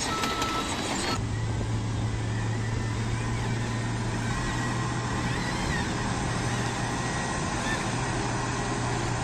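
Radio-controlled construction machinery running, a steady low mechanical hum with whirring noise that settles in about a second in.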